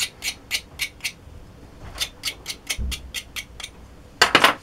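Short, rhythmic scrubbing strokes on the motor's small metal terminal cover plate, about three or four a second, broken by a brief pause and ending with a louder, quicker flurry of strokes.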